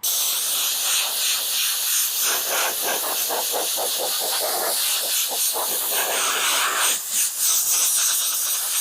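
Compressed air from an air compressor's blow gun hissing as it blows rinse water off a washed car, starting abruptly and with a rapid flutter through the middle seconds.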